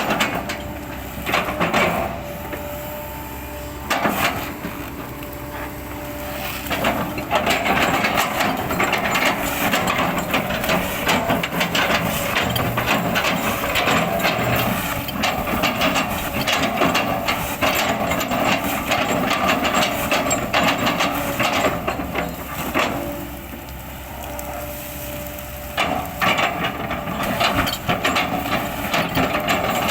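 Kobelco excavator's engine running while the bucket chops up an old oil palm trunk, with dense cracking and knocking of splitting wood. The chopping eases off twice, leaving mostly the steady engine.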